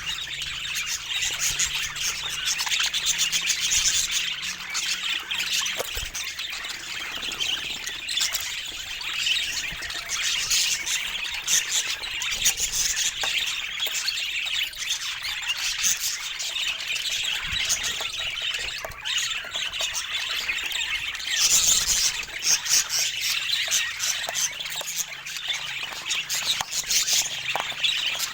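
Budgerigar warbling and chattering: continuous rapid chirps and squawks, with a louder burst of squawking about 22 seconds in.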